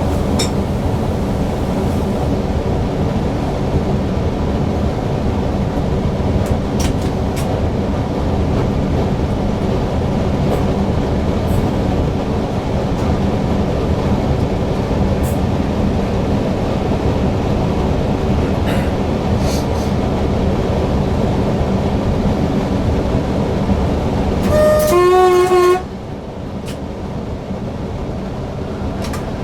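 Running noise of a Newag Impuls EN63 electric multiple unit heard from the driver's cab: a steady rumble of wheels on rail with a few light clicks. About 25 seconds in, a short two-tone horn blast, a higher note then a lower one, after which the running noise is a little quieter.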